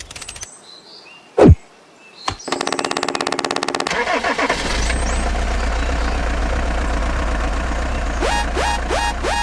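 A tractor engine cranks with fast even pulses for about a second and a half, then catches and runs on with a steady low rumble. Two short falling swishes come before the cranking, and a few short rising chirps come near the end.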